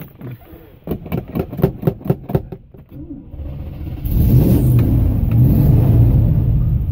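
Van engine cranked over by the starter, about four beats a second for under two seconds, then catching and running up to a loud, steady run.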